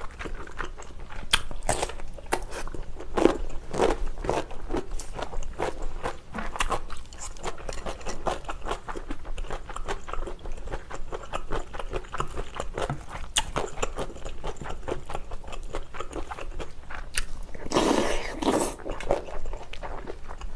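Close-miked eating sounds: repeated crunching bites and chewing of food. Near the end comes a longer noisy sip from a spoonful of spicy beef soup.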